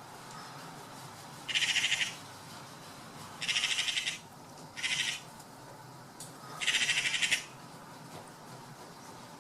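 A bird calling four times in short, harsh, rasping calls, each lasting under a second, spread over about six seconds.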